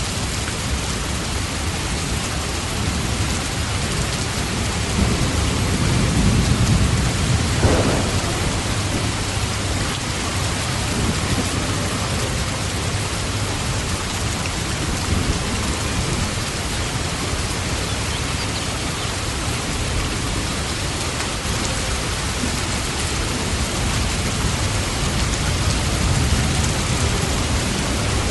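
Steady rain hissing evenly, with a low rumble of thunder swelling about five seconds in and fading by about eight seconds.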